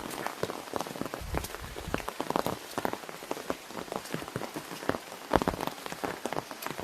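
Rain falling on an umbrella overhead: many irregular drop taps, some sharp and loud, over a steady hiss of rain.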